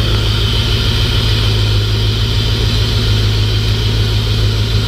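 Chevrolet Camaro IROC-Z's 5.7-litre V8, fitted with new Bosch 27 lb fuel injectors, idling steadily with a slight rumble after its cold fast idle has dropped.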